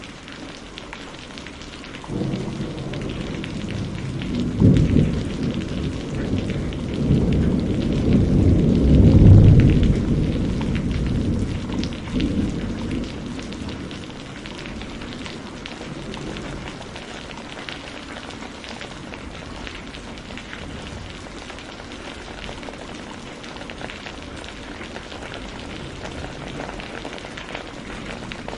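Steady rain with a rolling rumble of thunder that builds from about two seconds in, is loudest about nine seconds in and fades away by about thirteen seconds.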